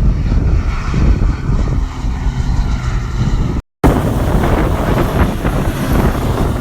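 Wind buffeting the microphone with a low engine drone underneath. The sound drops out for an instant about four seconds in, then returns with more hiss.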